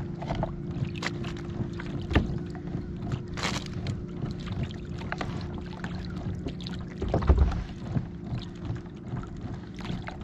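Fishing boat's motor running steadily at trolling speed, a continuous low hum. Scattered knocks and clicks sound over it, with a louder thump about seven seconds in.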